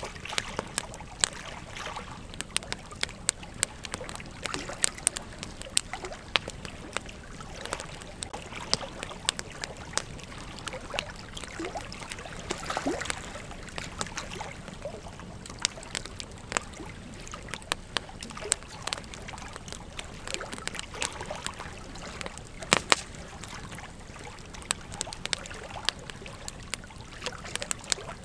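Campfire burning, with a steady hiss and irregular sharp crackles and pops from the wood, one louder pop about three quarters of the way through. A short falling whistle near the middle.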